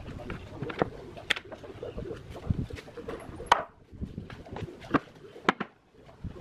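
Wood being struck during hand woodworking: about five sharp knocks at uneven intervals, the loudest about three and a half seconds in, over a low steady rumble.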